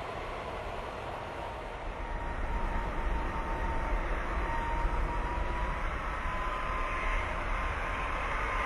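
Airbus A330 airliner's jet engines on a landing approach: a steady rushing noise with a low rumble and a clear whine that rises slightly in pitch, growing louder about two seconds in.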